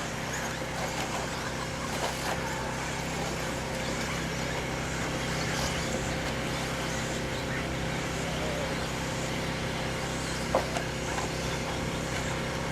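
1/10-scale electric 2WD RC trucks racing on a track: a steady mix of motor whine and tyre noise, with one sharp knock about ten and a half seconds in.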